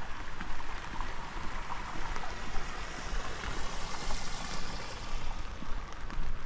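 Steady hiss of rain and running water, swelling briefly about halfway through.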